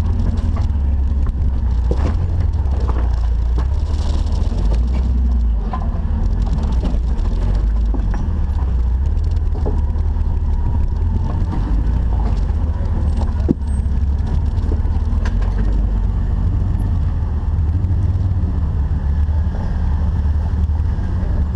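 Jeep engine and drivetrain running with a steady low rumble, with a few sharp knocks, the clearest about two seconds in and one about thirteen seconds in.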